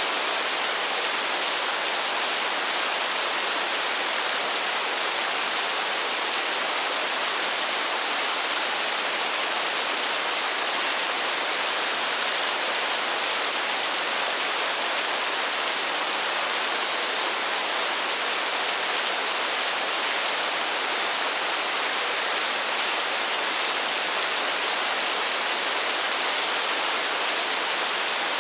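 Steady rain falling in a forest: an even, unbroken hiss with no separate drops standing out and no change in strength.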